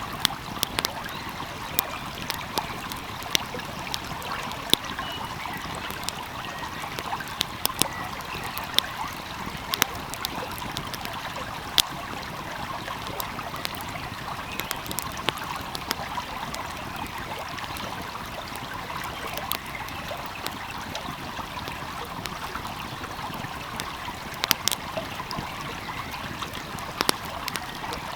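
Wood fire crackling, with irregular sharp pops and snaps, over the steady rush of a flowing stream.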